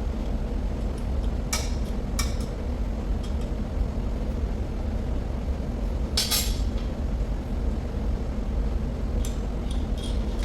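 Metal parts and tools clinking a few times, in small clusters, over a steady low machinery hum.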